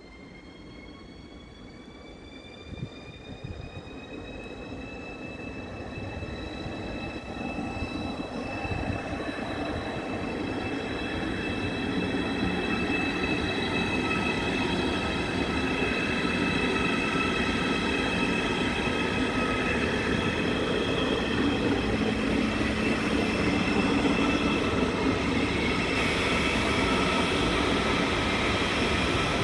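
A train running along the station tracks, growing steadily louder over about twelve seconds and then holding loud and steady. High whining tones rise slightly in pitch during the first few seconds and then hold above the rumble of the wheels.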